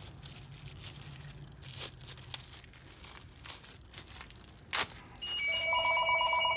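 Light clicks and knocks of engine parts being handled, with two sharper knocks. Then, about five seconds in, a telephone starts ringing with a loud, trilling electronic ring.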